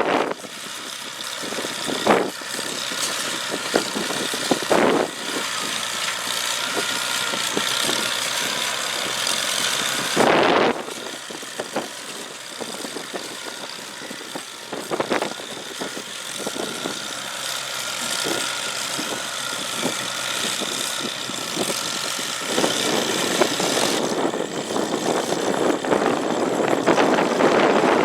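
McCormick-Deering No. 50-AW hay baler at work, its International Harvester Cub four-cylinder engine running steadily, with a few sharp knocks from the machine. Wind buffets the microphone near the end.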